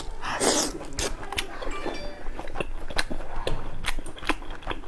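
Close-up chewing and mouth sounds: a string of short, sharp clicks and crunches, with a breathy noise just after the start.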